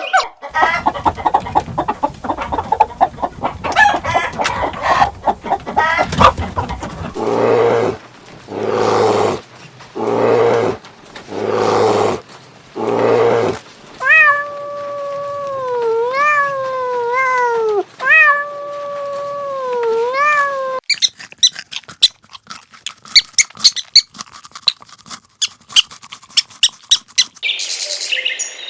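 A string of different animal calls edited one after another. First comes a busy patch of calls and clicks, then five evenly spaced cries about a second long, then drawn-out cat meows that slide up and down in pitch, and finally a run of quick clicks and chirps.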